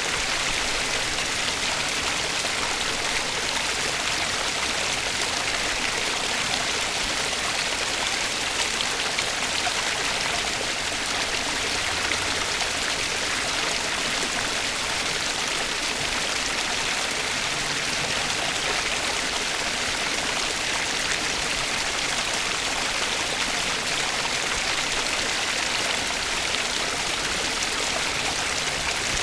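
Flowing water of a stream, a steady, even rush with no breaks or changes.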